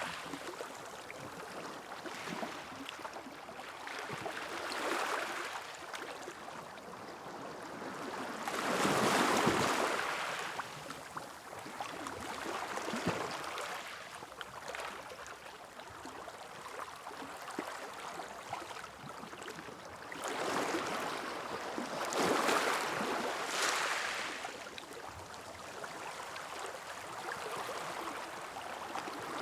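Sea waves breaking and washing up a beach, the surf swelling and fading every few seconds, with the two biggest waves about nine seconds in and again a little past twenty seconds.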